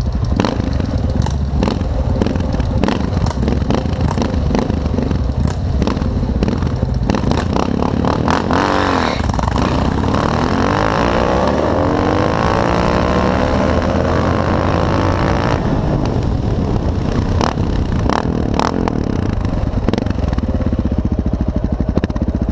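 Motorcycle engines running loud at a drag strip, with a stretch of rising and falling engine pitch in the middle, as a bike revs and accelerates. The sound cuts off suddenly at the end.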